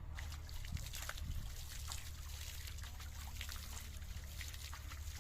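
Water trickling and splashing, a dense run of small drips and spatters, over a steady low rumble.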